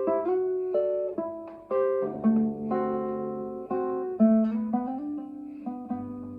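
Solo classical guitar playing, plucked chords and melody notes ringing out and fading between fresh attacks.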